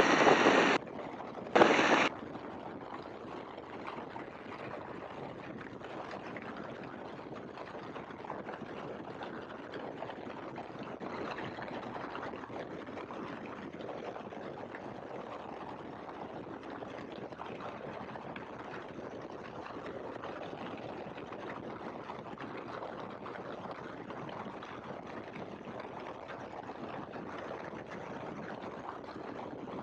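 Steady in-flight noise of a Great Lakes open-cockpit biplane, engine and wind rushing evenly as heard through the cockpit audio feed. Two short, loud bursts of noise come in the first two seconds.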